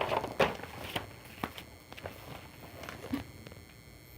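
Scattered soft clicks and knocks, several in the first second and another a little after three seconds.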